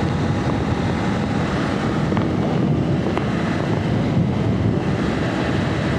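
Sports motorcycle riding at steady speed, its engine running under a heavy rush of wind on the helmet microphone.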